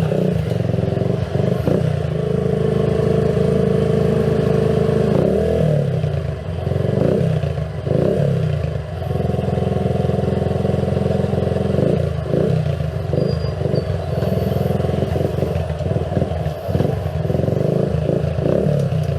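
Keeway CR152's single-cylinder engine running under way, its pitch rising and falling with the throttle. The engine is noisy, and its jerky pickup is put down by the rider to a poor fuel mix after the bike sat unused for a long time.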